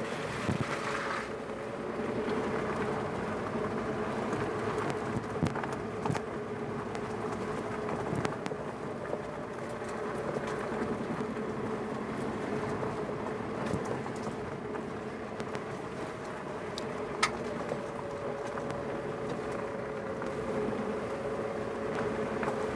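Suzuki Jimny JB64's 660 cc turbocharged three-cylinder engine running steadily at low speed, crawling along a rutted dirt forest track, with tyre and road noise. A few sharp knocks sound through it, the loudest about three-quarters of the way through.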